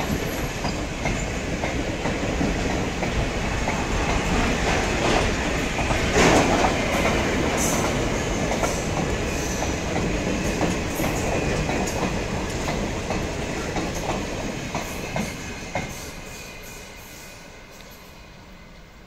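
A train rolling past, a dense rumble of wheels on rails with scattered sharp clicks, loudest about six seconds in, then fading away over the last few seconds as it moves off.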